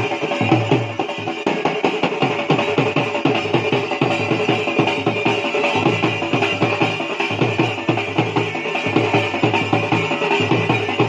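Folk dance music driven by fast, steady dhol drumming, with a sustained higher-pitched line held over the beat.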